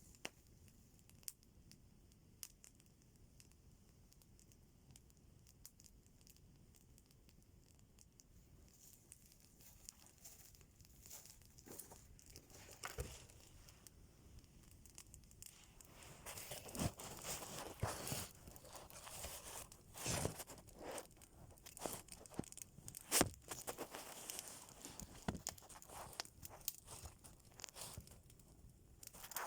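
Scattered faint clicks, then from about halfway a busy run of tearing and crumpling noises, as of material being torn and handled.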